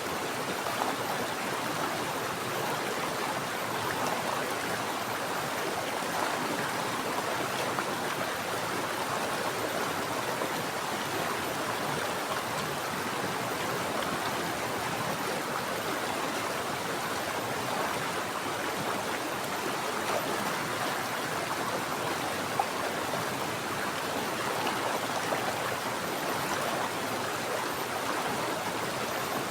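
Mountain stream flowing steadily, a constant even rush of water.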